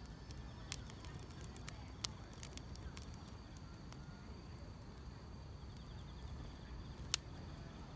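Wood fire crackling, with scattered sharp pops, the loudest about seven seconds in, over a low steady rumble, and faint insects trilling in the grass.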